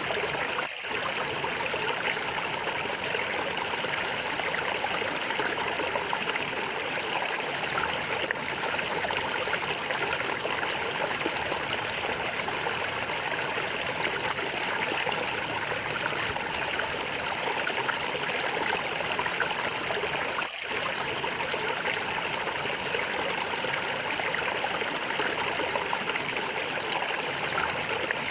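Flowing water gurgling steadily, with two very brief dips in level, about a second in and again about two-thirds of the way through.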